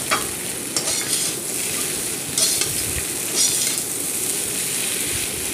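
Spiced mashed-potato filling sizzling in oil in a hot kadhai while a spoon stirs and scrapes it across the pan, with several scraping strokes over a steady frying hiss. The potato masala is being roasted until done.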